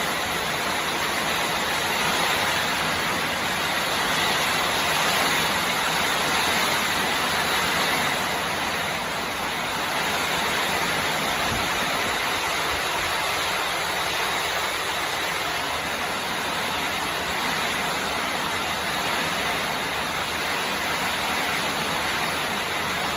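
Heavy storm rain pouring down, a constant rushing hiss.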